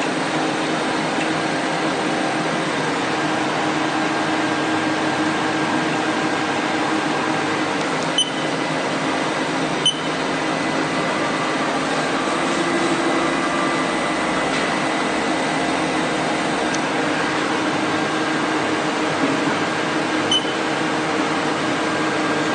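Steady mechanical hum with several held tones, like fans or machinery running, broken by two short clicks about eight and ten seconds in.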